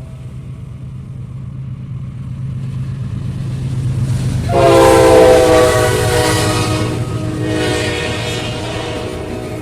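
Egyptian passenger train's diesel locomotive running with a steady low engine hum that grows louder, then sounding its horn: a loud blast starts sharply about halfway through, followed by a second, weaker blast near the end.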